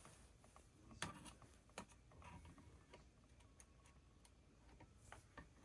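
Near silence, broken by a few faint clicks and taps, the sharpest about a second in and another just before two seconds in: small chainsaw parts and ignition wires being handled.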